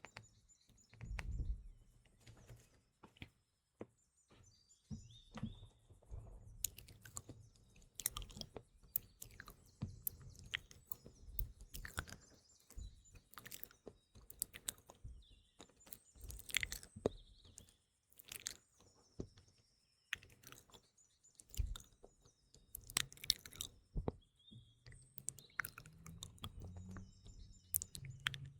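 Close-miked mouth sounds: a rapid run of small clicks and smacks from lips and tongue. Small birds chirp faintly behind them.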